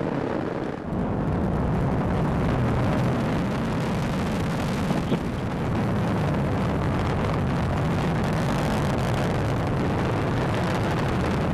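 Atlas V rocket climbing after liftoff, its RD-180 first-stage engine making a loud, steady, deep rumble with a fine crackle.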